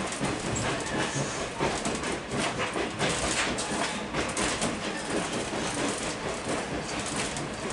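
Train rolling along the track: a steady rumble of wheels on rail with frequent irregular clicks and knocks as the wheels pass over rail joints.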